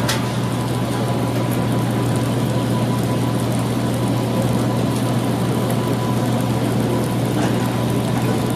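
A steady, loud mechanical drone with a strong low hum underneath and a faint steady whine above, unchanging throughout.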